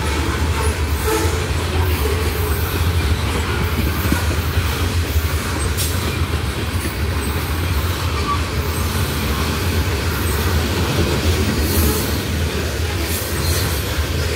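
Loaded covered hopper cars of a freight train rolling past at steady speed: a steady low rumble of steel wheels on the rails, with a few sharp clicks as the wheels pass the rail joints.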